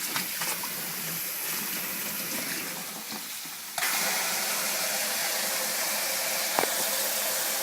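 Water running from a tap into a sink. The tap comes on suddenly about four seconds in and runs steadily after a quieter hiss.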